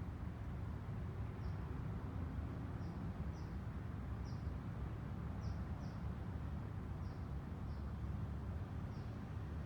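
Small bird giving short, high chip notes, about nine of them at irregular intervals, over a steady low background rumble.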